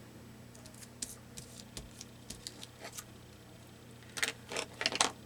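Light clicks and paper rustles of craft materials being handled on a table, with a few louder rustles near the end.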